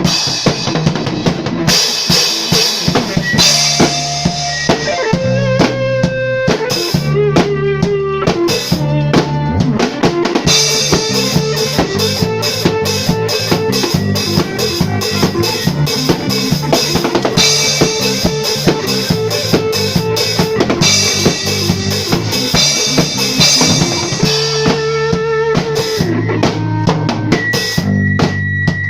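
Live drum kit playing a steady beat with bass drum, snare and rimshots, alongside other instruments holding low bass notes and mid-range tones, as in a band practice.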